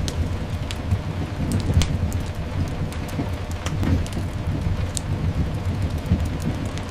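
Layered rain-and-fireplace ambience: steady rain hiss over a continuous low rumble, with irregular sharp crackles and pops of a fireplace fire scattered throughout.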